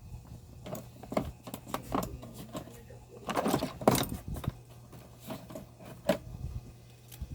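Clicks, taps and scraping of small parts and tools being handled while a small speaker is worked on, with a longer rattling scrape about three and a half seconds in.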